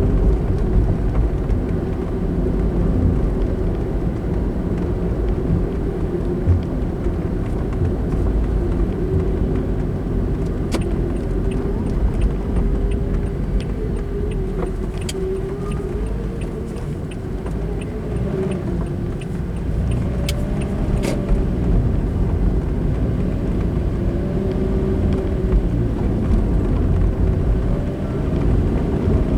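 Car driving on the road, recorded from inside the cabin: a steady low rumble of tyres and engine, with a faint hum that rises and falls in pitch as the speed changes. A regular light ticking runs through the middle stretch.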